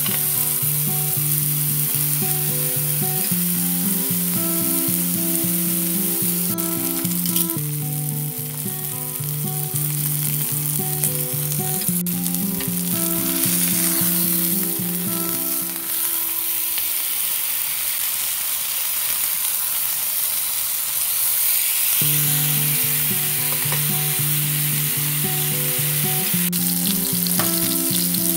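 Food sizzling in a hot pan, a steady hiss with background music playing over it; the music breaks off about halfway through and comes back a few seconds later.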